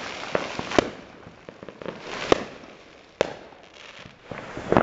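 Fireworks going off nearby: about five sharp bangs at uneven intervals, with crackling between them.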